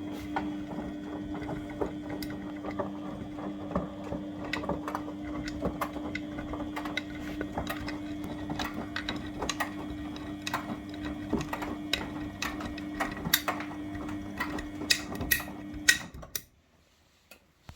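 Beko washing machine running its wash cycle: the drum motor hums steadily under irregular clicks and knocks, then stops suddenly near the end as the drum pauses.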